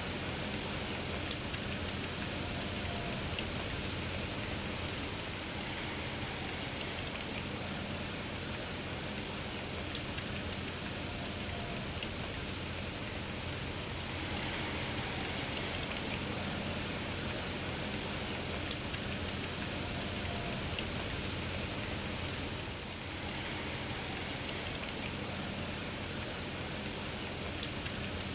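Steady rain falling, an even hiss with four sharp taps about nine seconds apart standing out above it.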